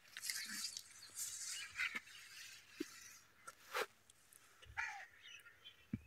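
Birds calling here and there, with short rustling sounds and a few sharp clicks between the calls.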